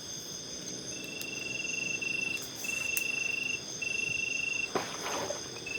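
Forest insects and crickets trilling steadily, with one louder trill coming in bursts of about a second, four times over. A short noise about five seconds in.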